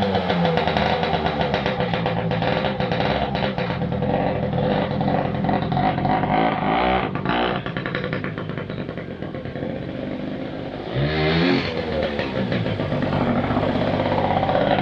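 Dirt bike engine running while being ridden, its revs rising and falling, with a sharp rev-up about eleven seconds in.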